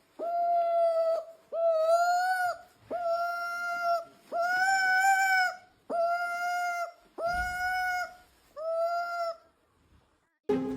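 An animal crying out over and over: seven drawn-out, even-pitched cries, each about a second long, with short pauses between them.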